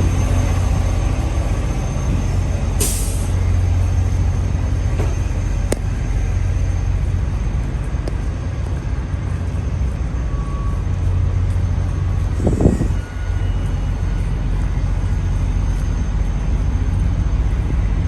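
Steady low rumble of idling diesel trucks, with a short hiss of air about three seconds in and a brief louder burst about twelve seconds in.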